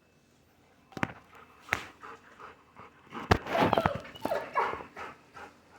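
Dog whimpering and giving short yelps at being left behind. There are two sharp knocks about a second in, and the cries come thickest in the second half.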